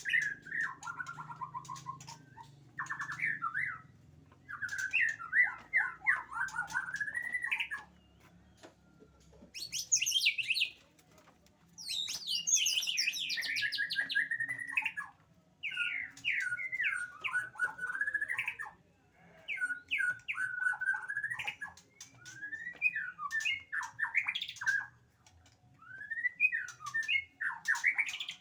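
White-rumped shama (murai batu) singing: a string of varied whistled and chattering phrases, each a second or two long, with short pauses between them.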